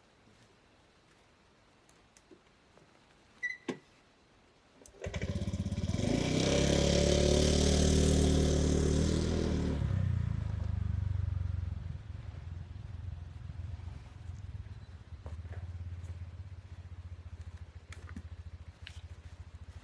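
Small motorcycle engine starting about five seconds in and revving hard for several seconds, then settling into a steadier, quieter running sound.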